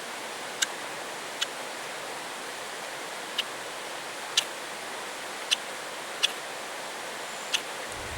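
Ferro rod scraped with a striker to throw sparks for a fire: seven short, sharp scrapes at uneven intervals, over the steady rush of a nearby waterfall.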